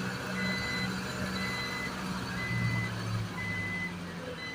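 Truck's reversing alarm beeping about once a second, each beep a single high tone about half a second long, over the steady low running of the diesel engine, as the Isuzu garbage truck backs up.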